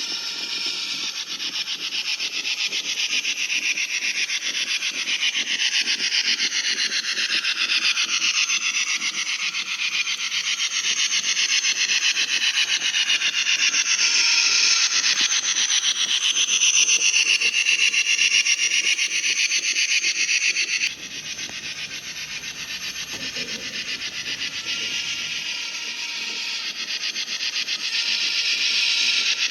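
Model steam train running on layout track: a steady, rapid clatter of wheels and drive, with whining tones that slide up and down. The sound drops suddenly about 21 seconds in, then builds again near the end.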